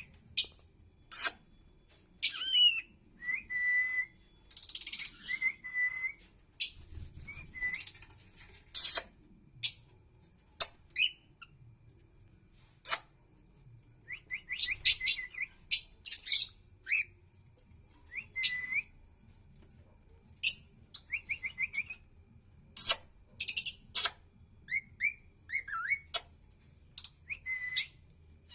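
Pet cockatiel whistling and chirping in irregular bursts: short whistled notes, some held on one pitch and some sliding, mixed with sharp call notes.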